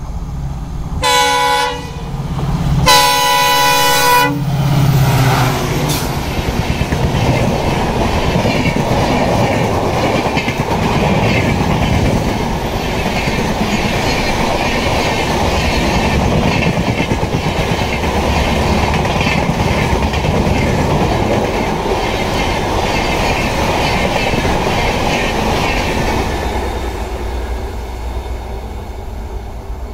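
EMD WDP4D diesel locomotive sounding its horn twice, a short blast then a longer one, and running past with a deep engine rumble. A long train of passenger coaches then rattles by, wheels clacking rhythmically on the track, fading near the end as the train draws away.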